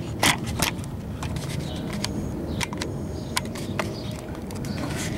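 Irregular small metallic clicks and clinks of hand tools and a spark plug being handled during spark plug work, over a steady low background rumble.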